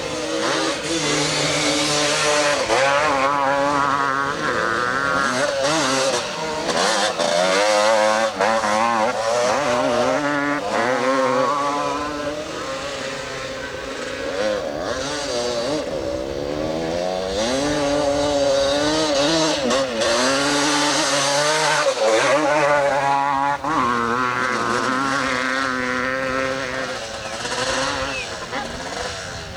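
Several 250 cc two-stroke motocross bikes racing. Their engines rev up and down in pitch over and over, with two or more engines at different pitches often overlapping.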